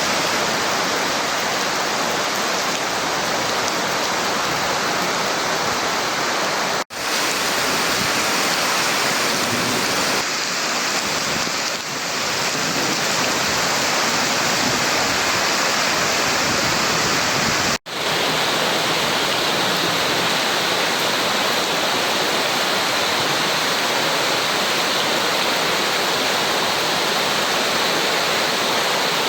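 Torrential rainstorm: heavy rain and running water making a steady, dense rushing hiss. It drops out briefly twice.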